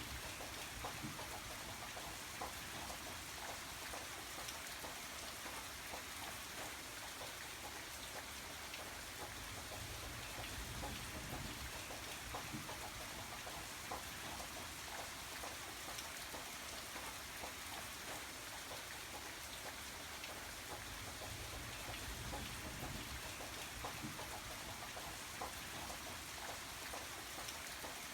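Steady rain falling, with the patter of individual drops striking a surface and a low background rumble.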